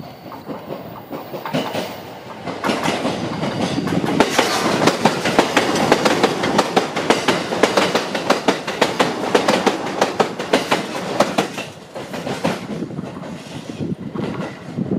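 JR East E129-series electric train passing close by, its wheels clattering over the rail joints in a fast run of clicks that builds after about two seconds, is loudest through the middle and dies away after about twelve seconds.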